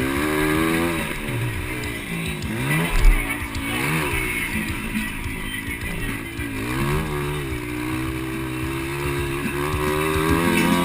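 Several 200cc-class motocross bike engines revving up and down, pitches rising and falling and overlapping as the bikes race. There is a brief low thump about three seconds in.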